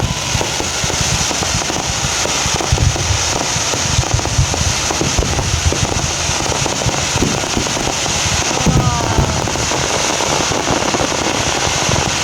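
Aerial fireworks going off in a dense barrage: a continuous rapid crackle of many small bursts and pops, steady in loudness throughout.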